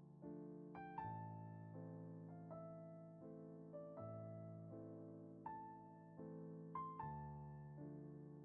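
Quiet, slow solo piano music: single notes and chords struck roughly once a second, each left to ring and fade.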